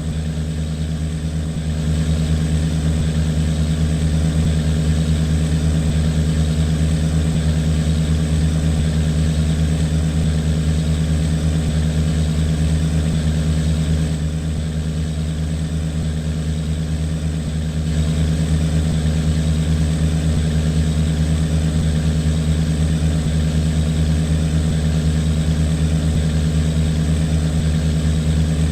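A boat's engine running steadily at a constant speed, a little quieter for a couple of seconds at the start and again about halfway through.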